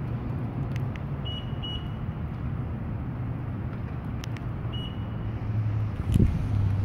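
Toyota FJ Cruiser's 4.0-litre V6 engine idling steadily, with a few short high beeps and scattered clicks, and a thump about six seconds in.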